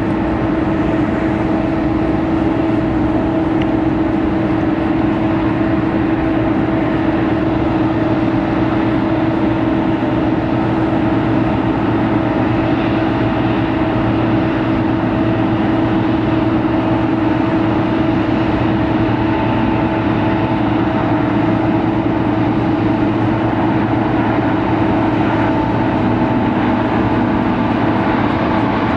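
Boeing 787-10 airliner running steadily: a constant rumble of engine and air noise with a steady hum.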